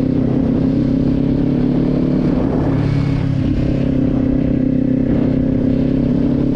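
Kawasaki motorcycle engine running at a steady speed while being ridden, its note holding level without revving up or down.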